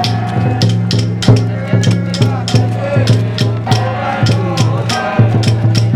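Penghu xiaofa ritual music: drums and percussion struck in a steady, quick beat of about three strikes a second under a sustained low chant.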